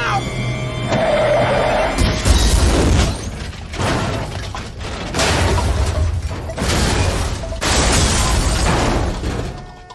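Film action sound effects: a run of loud crashes and smashing impacts, several in a row, over the score. The level drops away just before the end.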